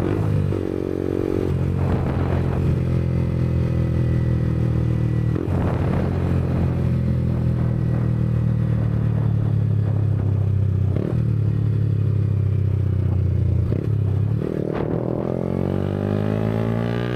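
2022 Yamaha MT-125's single-cylinder 125cc four-stroke engine running through a Black Widow aftermarket exhaust while the bike is ridden, with a steady note broken briefly a few times. Near the end the engine note shifts in pitch.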